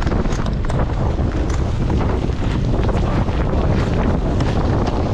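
Strong wind buffeting the microphone: a loud, continuous low rumble with quick flickering gusts.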